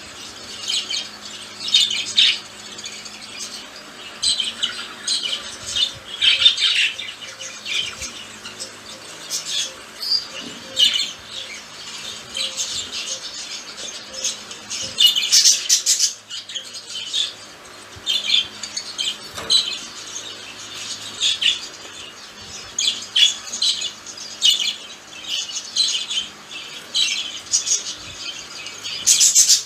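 Two budgerigars chattering and warbling, a steady run of quick chirps and squawks.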